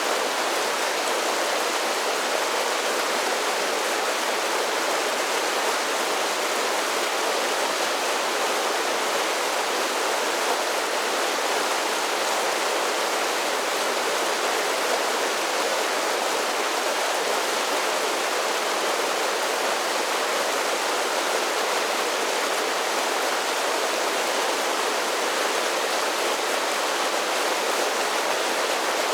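Mountain creek spilling over a series of small falls: a steady, even rush of water with little deep rumble and no change throughout.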